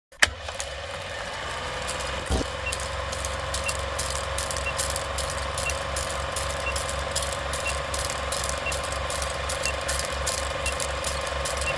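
A machine running steadily with a fast, regular low pulse and a faint tick about once a second.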